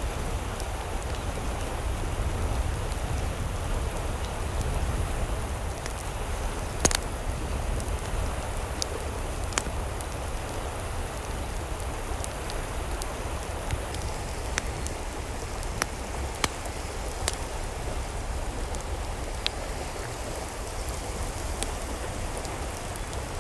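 Steady rain with sharp drip ticks landing here and there at irregular moments.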